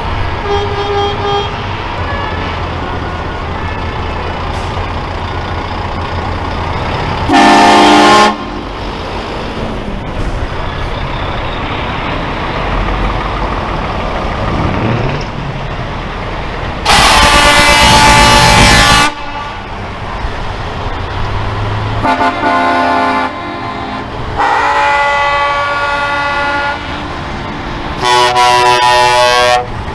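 Truck air horns sounding repeatedly over the steady rumble of passing diesel trucks: a short blast about seven seconds in, a loud two-second blast near the middle, and three more blasts near the end.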